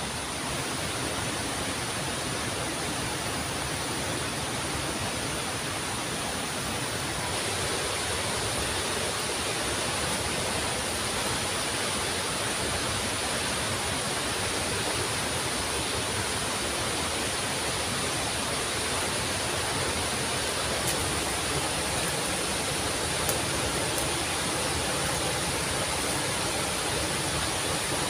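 Waterfall rushing: a steady, even wash of falling water, with a thin, steady high tone above it.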